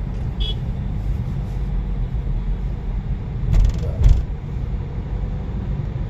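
Car driving, heard from inside the cabin: a steady low engine and road rumble, with two brief louder thumps about three and a half and four seconds in.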